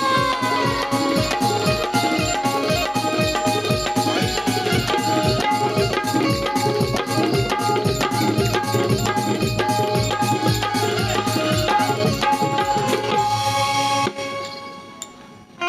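Folk ensemble playing: a hand drum keeps a steady beat of about three strokes a second under sustained held melody notes. The music stops near the end.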